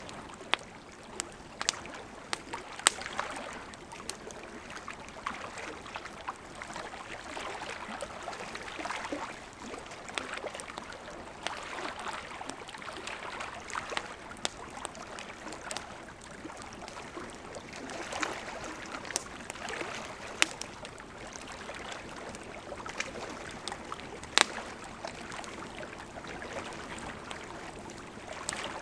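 Wood campfire burning: a steady hiss of flames with frequent sharp crackles and pops, a few of them much louder than the rest.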